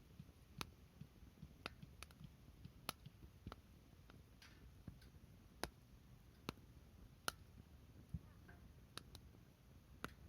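Wood fire crackling quietly: about a dozen sharp pops and snaps at uneven intervals, over a faint low rumble.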